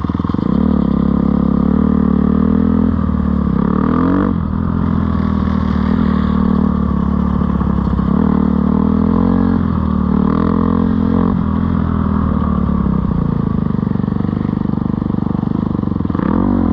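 Dirt bike engine running while being ridden, its note rising and falling with the throttle, with a brief drop about four seconds in and again near the end.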